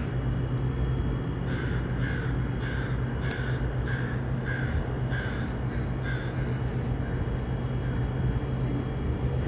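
A crow cawing, a run of about ten short caws at roughly two a second that stops a few seconds before the end, over a steady low hum.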